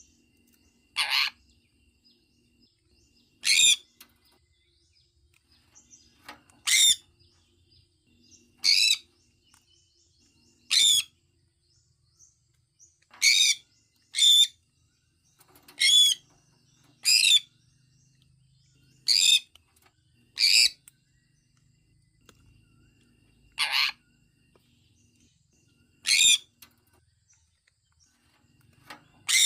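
Sun conure giving short, loud, high-pitched calls one after another, about fourteen of them, spaced every one to three seconds.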